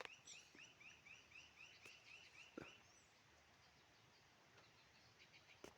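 A faint bird call: a rapid, even series of short high chirps, about five a second, stopping about three seconds in.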